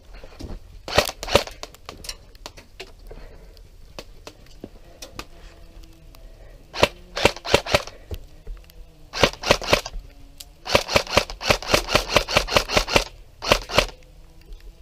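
Airsoft guns firing in volleys of sharp, rapid shots: a few about a second in, more clusters in the middle, and a long fast string near the end.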